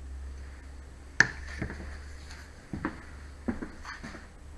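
A few light clicks and knocks from handling the MDF mould, the sharpest about a second in, with others near the middle and toward the end, over a low steady hum.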